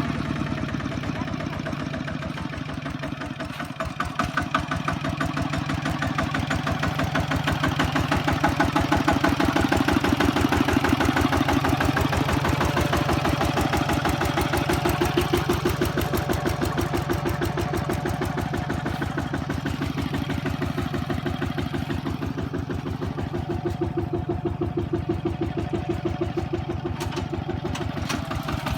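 Kubota ZT155 single-cylinder diesel engine running steadily with an even, rapid beat, a little louder from about four seconds in.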